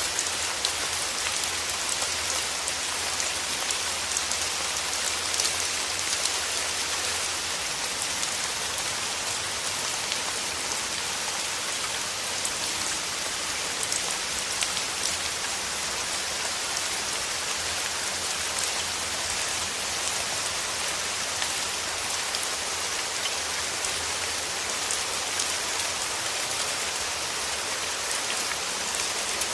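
Steady rain falling, a dense even patter of drops with no let-up or thunder.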